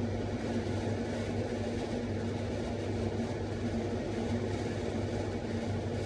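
Steady low mechanical hum, even in level throughout.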